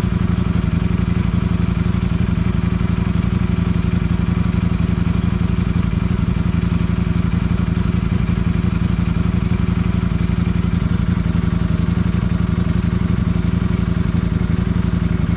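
Ducati motorcycle engine running at a steady, unchanging pitch.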